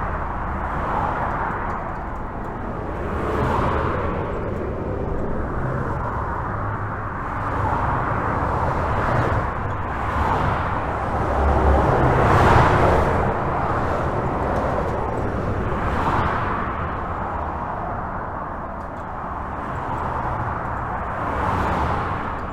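Highway traffic heard from under a bridge: a steady low rumble with cars and trucks passing one after another, each swelling and fading as a whoosh of tyre noise, the loudest pass about twelve seconds in.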